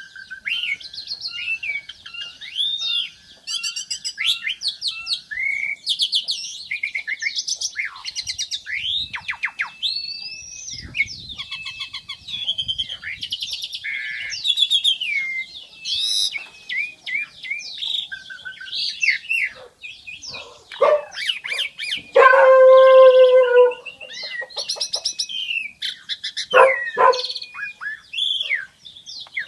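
Pied starling (jalak suren) singing a long varied song of slurred whistles, chirps and rapid clicking rattles. Near the middle comes one loud, drawn-out nasal note lasting about two seconds.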